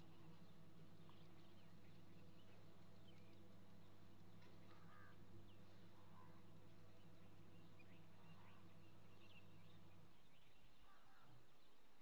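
Faint, scattered short bird chirps and calls over a steady low hum; the hum drops out near the end.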